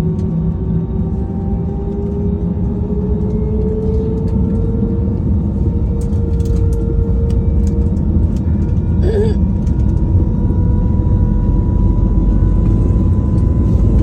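Airbus A321 jet engines running with a deep rumble and a whine that slowly rises in pitch, growing gradually louder: thrust building for takeoff.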